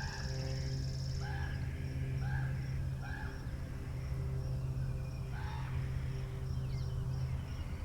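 Birds calling in short repeated notes, about two a second during the first half, then a few scattered calls, over a steady low hum; a thin high trill stops about a second in.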